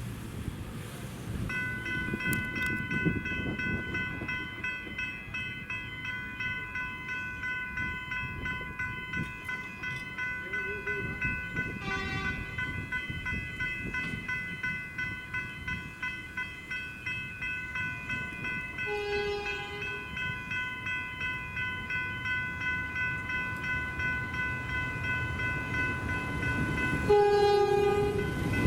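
Two General Signals electronic level-crossing bells start ringing about a second and a half in and keep up a steady pulsing chime as the crossing warns of an approaching train. The train's horn sounds in short blasts a few times, loudest near the end, over a low rumble.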